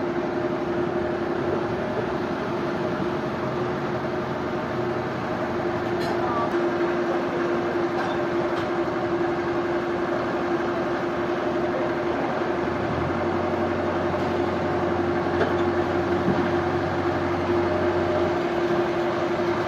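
Sawmill machinery running steadily, a constant hum over a rough mechanical noise. A deeper hum comes in about two-thirds of the way through and stops shortly before the end.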